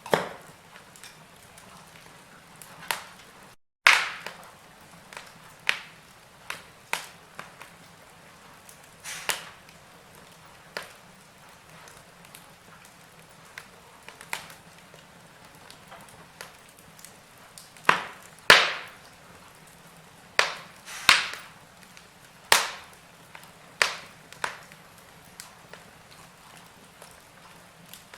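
Wood fire burning in a fireplace, crackling with sharp, irregular pops over a soft hiss. The loudest pops come in a cluster past the middle, and the sound cuts out for an instant about four seconds in.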